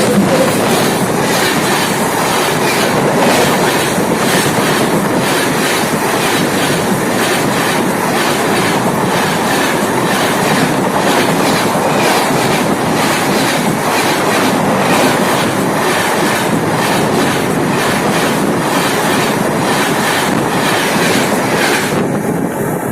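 Konark Express passenger coaches running at speed directly over the camera: a loud, steady rumble of steel wheels on rail with an even clickety-clack as wheel sets cross the rail joints. It eases off near the end as the train clears.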